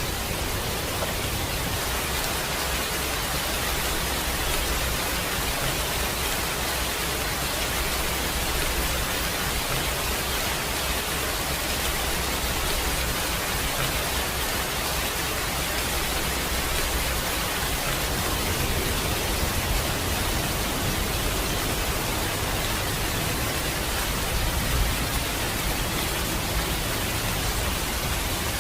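Steady heavy rainfall, an even hiss of rain on surfaces with a low rumble underneath.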